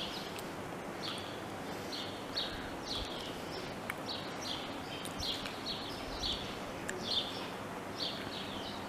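A small bird chirping over steady outdoor background noise. Its short, high notes drop quickly in pitch and come about twice a second throughout.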